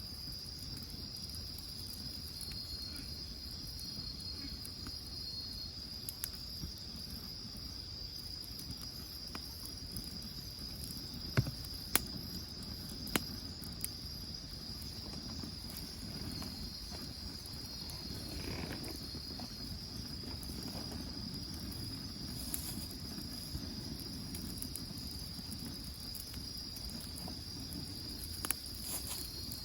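Crickets singing in a steady, unbroken high trill, with a few sharp pops from a wood fire around the middle and near the end.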